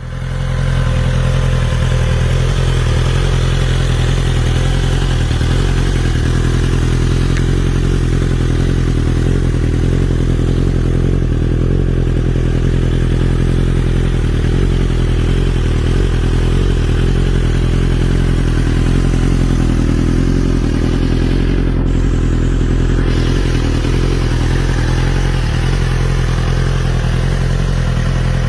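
2021 BMW S1000RR's inline-four engine idling steadily through an aftermarket Akrapovič exhaust system.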